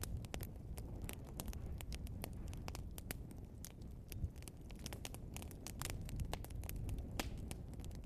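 Burning log fire crackling and popping: many irregular sharp snaps over a steady low rumble of the flames.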